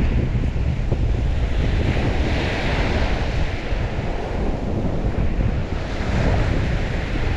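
Water washing steadily, its hiss swelling twice, with strong wind buffeting the microphone and a heavy low rumble.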